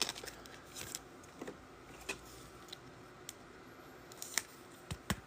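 Trading cards and packs being handled: faint, scattered short clicks and taps, with a couple of sharper ones near the end.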